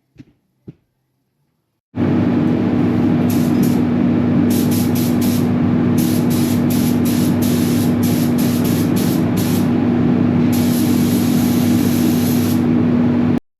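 Spray gun applying epoxy top coat to shock absorbers: a loud, steady rush of air with a low hum starts abruptly about two seconds in, with sharp hiss in many short trigger bursts and one longer pass near the end, then cuts off suddenly.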